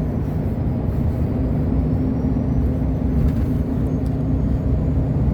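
Truck's engine and road noise heard inside the cab while cruising on the highway: a steady low drone with a faint high whine above it.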